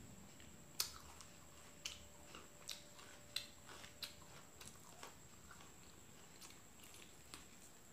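A person eating fried chicken with sambal close to the microphone: a series of short, sharp, irregular wet smacks and clicks of chewing and biting, most of them in the first half.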